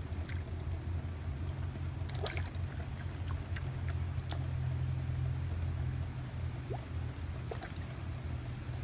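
Heavy rain falling on lake water, an even hiss scattered with small drip and splash ticks, over a steady low rumble.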